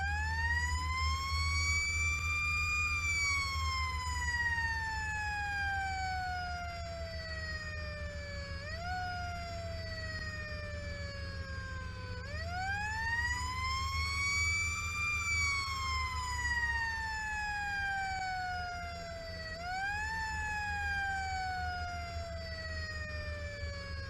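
Fire engine siren wailing: twice it rises over a few seconds and then falls slowly, each time with a short upward bump partway down, over the steady low drone of the truck's engine.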